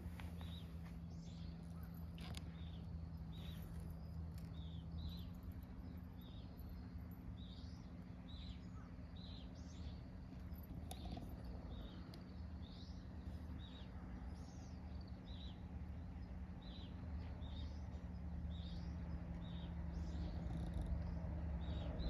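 A small bird chirping over and over, short high calls a little under two a second, over a steady low hum.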